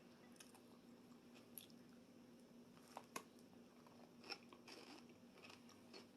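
Faint chewing with a few soft crunching clicks scattered through it: a person eating a cucumber topped with croutons and salad fillings, over a faint steady hum.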